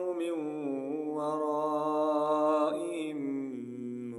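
A man's voice in melodic Quran recitation (tajweed), drawing out long, wavering held notes with slow ornamental pitch turns and a brief break near the end.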